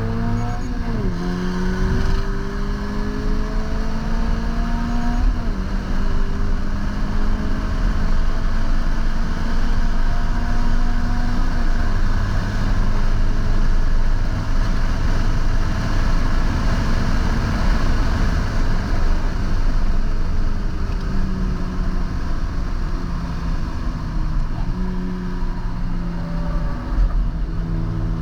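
2022 Toyota GR86's 2.4-litre flat-four engine under hard track driving. It revs up with a drop in pitch about a second in as it shifts, climbs again for a few seconds, then runs on at high speed under a steady wash of road and tyre noise. Around two-thirds through the pitch falls as the car slows, and the engine runs lower to the end.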